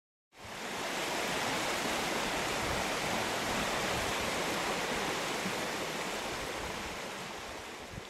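Steady rushing water with no pitch to it, fading in just after the start and slowly tapering off near the end.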